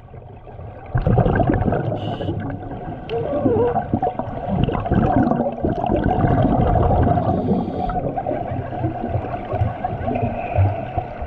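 Underwater sound picked up by a submerged camera: muffled bubbling and churning water, heavy in the low end, which gets much louder about a second in and stays uneven.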